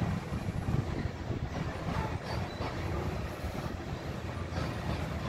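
Coal train's freight cars rolling past on the rails: a steady low rumble of wheels on track.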